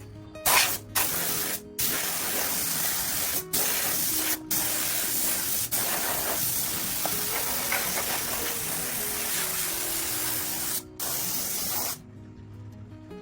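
A loud spraying hiss in long bursts with a few short breaks, the trigger let go and pressed again, cutting off about a second before the end. Background music plays underneath.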